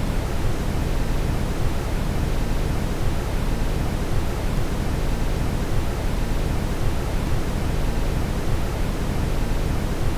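Steady synthetic brown noise: an even, deep rushing hiss, strongest in the bass, with no change in level.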